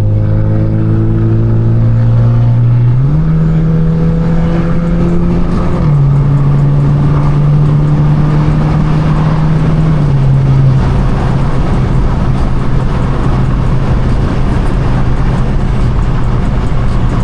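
Straight-piped BMW 428i's turbocharged four-cylinder exhaust droning at a steady cruise under road and wind noise. The pitch jumps up about three seconds in, then drops back in two steps as the car shifts and settles, holding steady through the rest.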